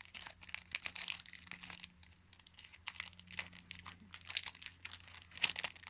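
Plastic packaging crinkling and crackling in the hands as it is worked open, in irregular bursts, easing off for a second or so in the middle.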